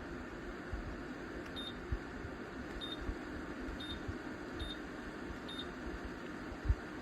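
Ceramic fan heater's fan blowing with a steady rush of air, and five short high electronic beeps about a second apart in the middle.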